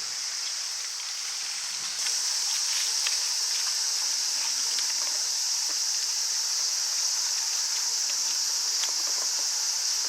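A steady, high-pitched chorus of insects shrilling, with faint scattered clicks and rustles of garden work; it gets a little louder about two seconds in.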